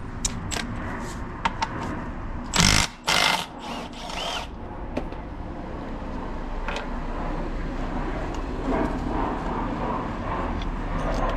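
Metal engine parts and tools clicking and clinking during work on a motorcycle engine, with two short loud bursts of noise about three seconds in.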